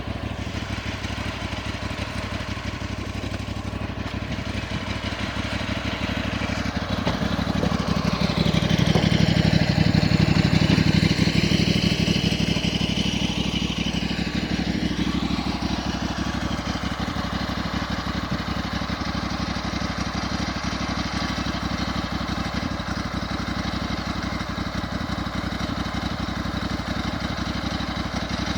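An engine running steadily, growing louder from about seven seconds in, peaking around ten seconds and easing back by about sixteen seconds. During the swell a higher whine bends down and back up in pitch.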